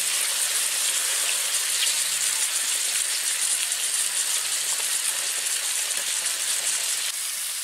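Hot water poured into a pan of frying yogurt chicken curry, the hot oil and masala sizzling and bubbling with a steady hiss. The water goes in once the masala has been fried until the oil separates.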